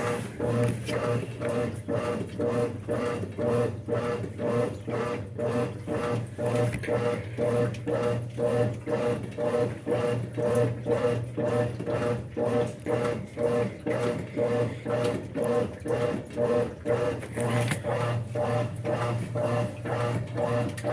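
Brastemp 5 kg washing machine running its wash cycle: a steady motor hum with a regular pulsing about twice a second as the drum's agitator turns back and forth.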